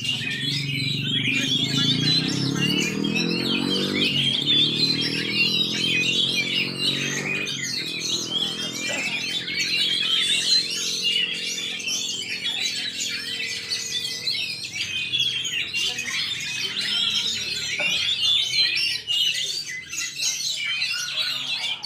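Many caged songbirds singing at once, a dense overlapping chorus of chirps and trills. A low humming drone sounds underneath for the first eight seconds or so, then fades.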